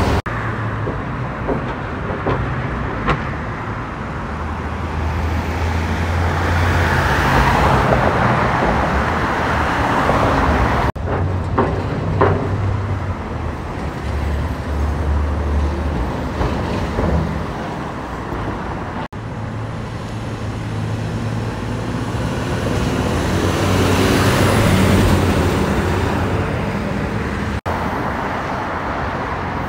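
Road traffic going past, several vehicles in turn, with deep engine drones from heavy vehicles that swell as each one passes and fade away. The sound drops out for an instant three times.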